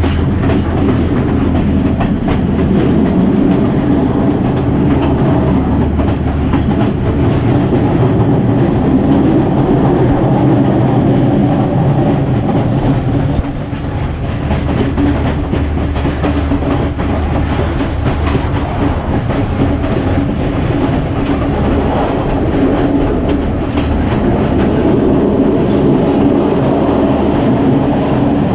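Passenger train carriage running at speed, heard at an open window: a steady low rumble and rattle with the wheels clicking over the rail joints.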